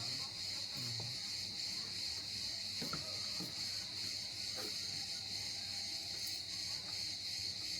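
Steady, high-pitched insect chorus, a continuous chirring that does not let up.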